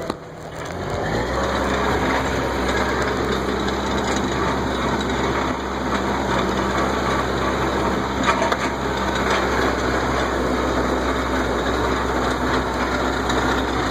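Tractor engine running steadily as the tractor is driven along, its sound building over the first second or two and then holding even.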